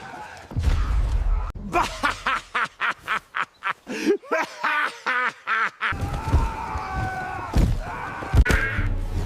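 A rapid run of short pitched vocal calls, about four a second, over a low rumble, followed by longer held tones.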